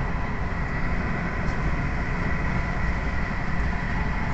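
Passenger train running, heard from inside the carriage: a steady low rumble with a thin, steady high whine over it.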